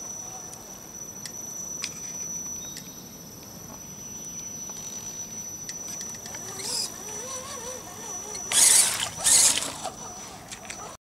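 Radio-controlled crawler truck creeping along, its electric drive giving a steady high whine with scattered small clicks. Near the end, two loud rushing bursts about a second apart.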